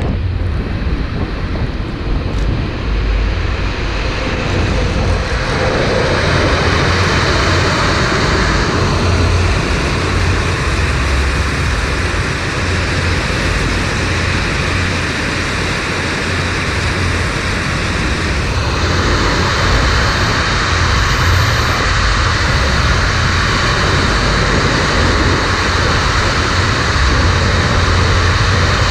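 A train running past on the line, a steady loud rumble and rush of wheels on track, with wind buffeting the microphone. A harsher hiss comes in about six seconds in and again shortly before twenty seconds.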